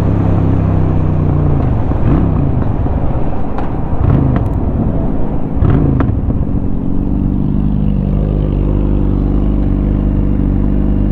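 Honda Shadow 750 V-twin engine running under way. Its pitch rises and drops a few times in the first half, then holds steady.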